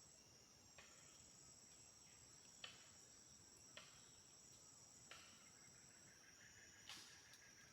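Faint, steady shrill chorus of crickets and other insects in the rainforest, with about five faint clicks or knocks scattered through it.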